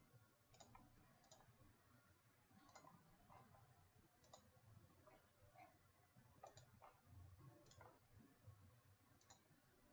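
Faint computer mouse clicks, about a dozen at irregular intervals, over near-silent room tone.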